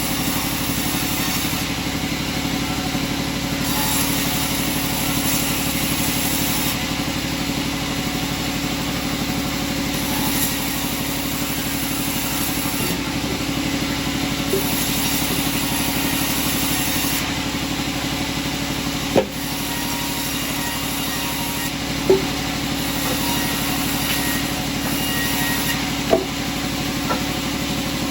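Sawmill machinery running steadily with an engine-like hum, a brighter hiss that swells and fades every few seconds, and a few sharp knocks in the second half.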